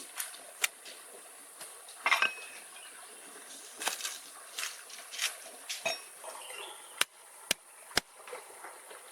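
Irregular light clinks and knocks of cooking utensils against pots and dishes, with a short clinking cluster about two seconds in and three sharp taps close together near the end.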